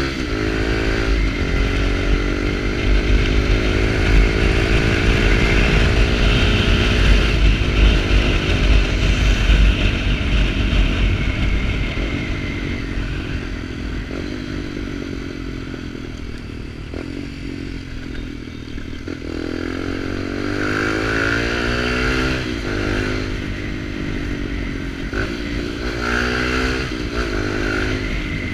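Small Kawasaki Ninja motorcycle with a sport exhaust running under way, its engine note rising as it accelerates and falling as it eases off, twice, over a steady low rumble.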